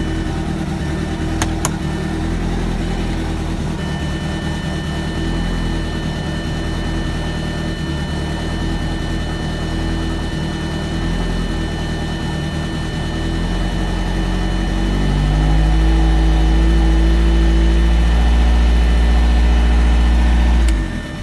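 Turbocharged 1.8-litre four-cylinder AEB engine in a B5 car idling steadily. About fifteen seconds in its speed rises and holds higher and louder, then the sound cuts off just before the end.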